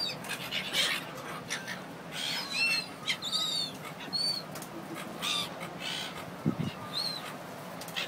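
Birds calling: short, high chirps and squawks, roughly one a second, with a brief low sound about six and a half seconds in.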